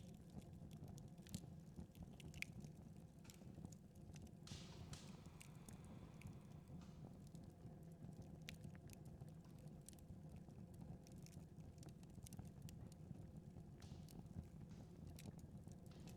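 Fireplace wood fire crackling faintly: scattered small, irregular pops and clicks, with a brief soft hiss about four and a half seconds in.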